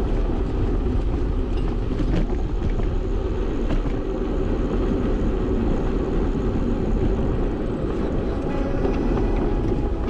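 Steady low rumble and rattle of a bicycle being ridden, picked up through a GoPro on the bike mount.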